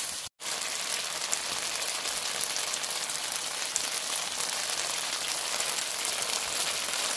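Shrimp sizzling in a buttery sauce in a stainless steel wok, a steady frying hiss with small crackles. It breaks off for an instant just after the start.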